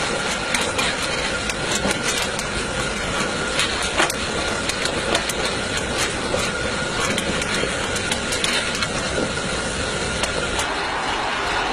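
Miniature live-steam locomotive running: a steady rush of noise with frequent irregular sharp clicks and a faint steady high tone.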